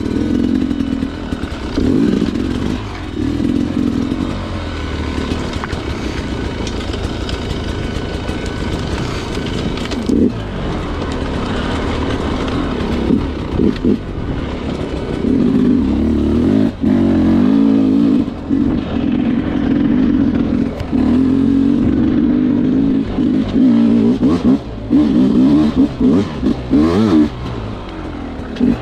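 Sherco two-stroke dirt bike engine working at low speed, revving up and falling back in short bursts of throttle, with a few sharp knocks from the bike over rough ground.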